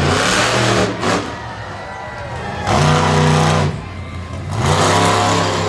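Monster truck engine revving in three short bursts about two seconds apart, idling between them.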